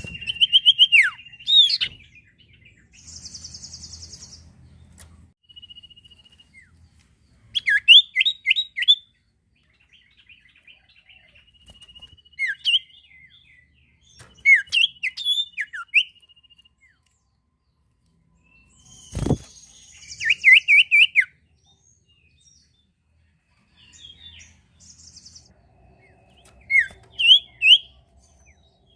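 The songbird that Indonesian bird-keepers call 'sirtu' (sirpu) sings in separate phrases: thin level whistles and quick runs of sharp downward-sweeping chirps, with short buzzy notes between them. A single sharp click comes about 19 seconds in.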